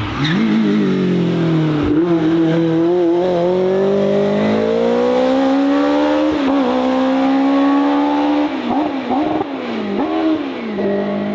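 Race car engine at hard throttle on a hillclimb run. Its pitch drops at the start, then climbs steadily for several seconds with a brief dip partway. Near the end comes a quick run of dips and blips before it settles.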